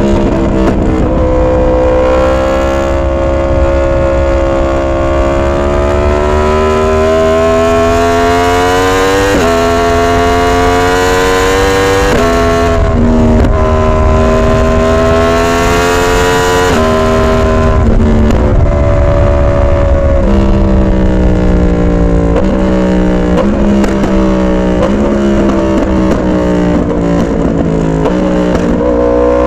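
Yamaha R1 crossplane inline-four engine running under load while being ridden, its pitch rising and falling over and over with several sudden jumps, over a steady low rumble.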